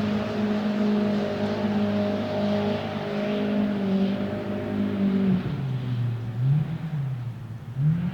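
Rally car engine held at high revs, then the revs drop about five seconds in, blip up and down once, and climb back to high revs near the end.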